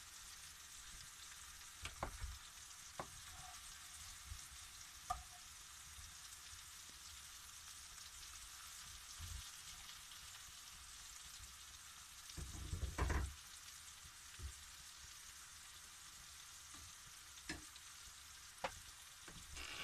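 Sliced portobello mushrooms sizzling faintly in a frying pan, with scattered knocks and scrapes of a utensil stirring them. The loudest cluster of knocks comes about two-thirds of the way through.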